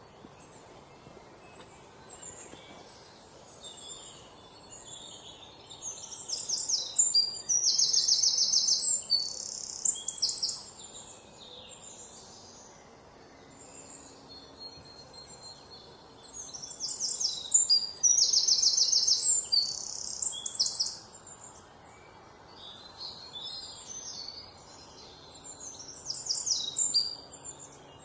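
Outdoor birdsong: a high-pitched song with fast trills comes three times, about ten seconds apart, the last one shorter. Quieter chirps fill the gaps between.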